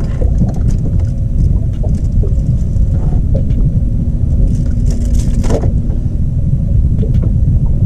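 Boat motor running with a steady low rumble, a constant hum over it. A brief rushing noise about five seconds in.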